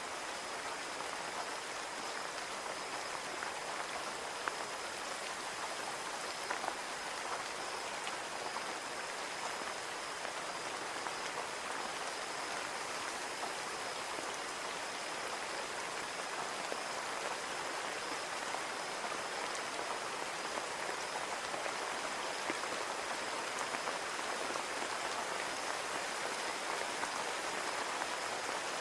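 Steady rain falling on a window, with many small drops ticking against the glass.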